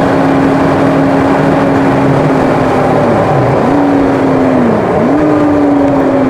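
Car engine heard over steady road and tyre noise: its note holds steady, then about three seconds in drops and jumps back up twice in quick succession, then sinks slowly, as the car slows and shifts down through the gears.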